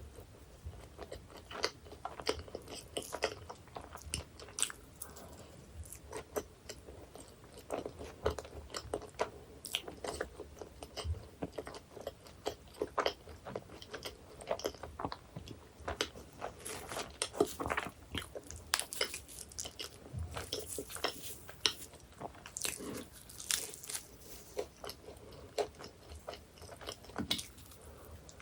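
Close-miked biting and chewing of flaky baked pie pastry: many sharp crisp crunches and crackles with softer moist chewing between them, the crunching coming thicker in the second half.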